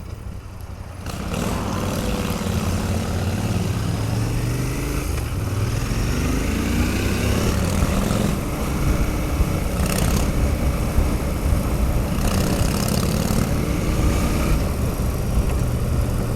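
Motorcycle engines running, picking up about a second in and rising and falling in pitch as they accelerate through the gears, with wind noise on the microphone.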